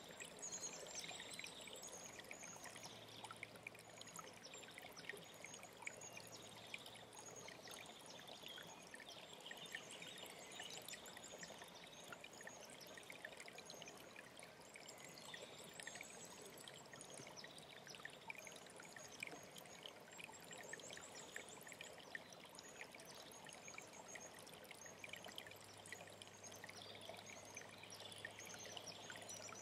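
Mountain stream running steadily, with several small birds singing high, repeated chirps and trills over the water.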